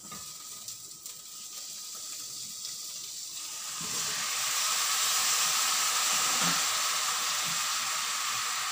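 Pork, still partly frozen, going into hot oil with sautéed garlic and onion in a saucepan. The sizzle rises sharply to a loud, steady hiss about four seconds in, with a few knocks of a wooden spatula stirring the meat in the pot.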